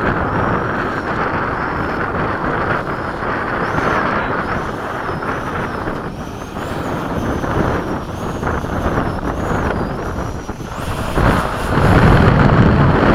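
Electric ducted-fan RC F-16 jet flying, its thin fan whine rising and falling with throttle and passes, over heavy wind noise on the microphone. The wind rumble grows louder near the end.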